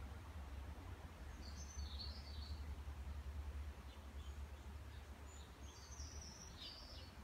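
Small birds chirping faintly in two short spells, over a steady low rumble.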